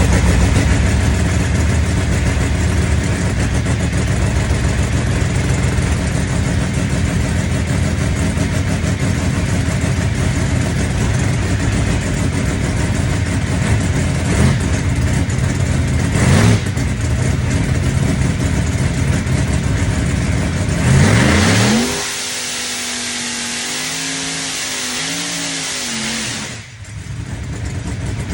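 Drag race car's engine running loudly at idle, with two brief throttle blips partway through. About three-quarters of the way in it gives way to a quieter whining tone that rises and then wavers in pitch.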